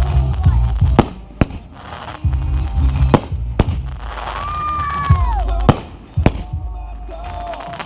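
Fireworks bursting: about six sharp booms at uneven intervals, over pop music with a heavy bass. A pitched whistling tone bends downward about four to five seconds in.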